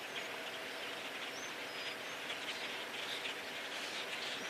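Faint, scattered chirps from a huge passing flock of birds over a steady hiss of outdoor background noise.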